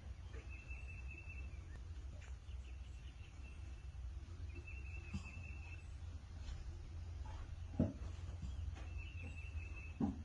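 Outdoor ambience: a steady low rumble with a high, even-pitched trilling call about a second long that repeats three times, roughly every four seconds. A couple of soft knocks, the louder one about eight seconds in.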